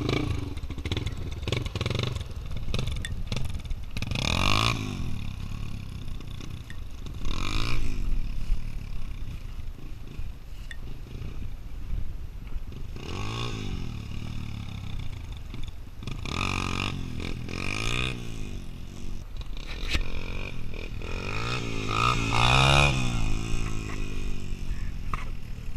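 Motorcycle engine revving up hard and easing off again, about five surges.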